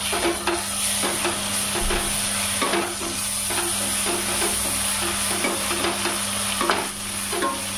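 Onion-and-spice masala sizzling as it fries in a steel pot, while a wooden spatula stirs it with frequent scrapes and knocks against the pot. Golden-brown onions with ginger-garlic paste and ground spices being mixed in and fried.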